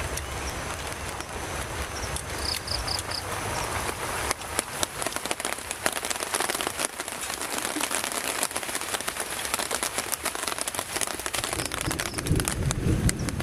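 Steady rain falling, thick with sharp drop hits. About two and a half seconds in, four quick high chirps sound over it.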